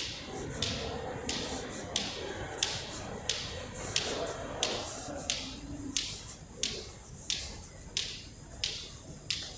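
Footsteps on a hard floor, about one and a half even steps per second, each with a short echo. The steps grow slightly fainter in the second half.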